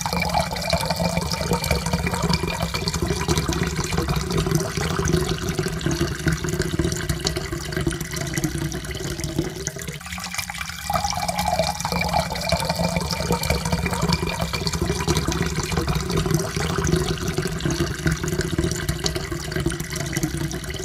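Water poured into a cup in a steady stream, its pitch rising slowly as the cup fills. About ten seconds in, the stream briefly stops and a fresh pour begins, rising again.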